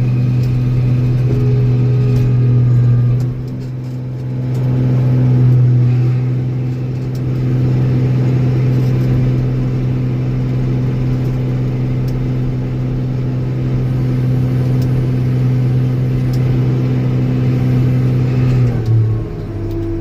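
Old Steiger four-wheel-drive tractor's diesel engine running steadily under load while plowing drifted snow with its blade. The engine note dips briefly about three seconds in, then drops lower in pitch near the end as it slows.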